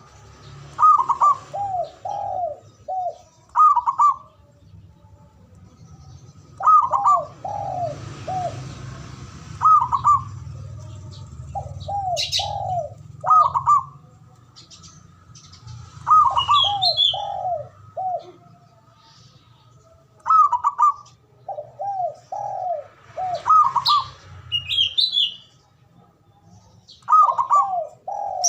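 Zebra dove (perkutut) singing its cooing song: a phrase of one or two higher notes followed by a short run of lower rolling coos, repeated every three to four seconds. A smaller bird chirps briefly twice in between.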